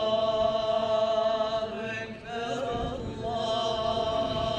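A man chanting Islamic religious recitation in long, ornamented held notes: one long note, a short melismatic turn about two seconds in, then another long held note.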